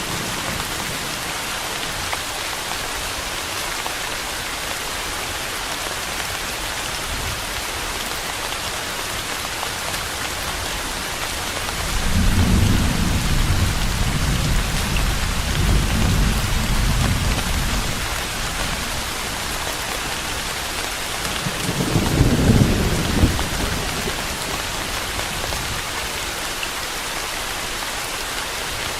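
Steady rain falling, an even hiss, with rolls of thunder: a long low rumble about twelve seconds in lasting some six seconds, and a shorter, louder one a little past the twenty-second mark.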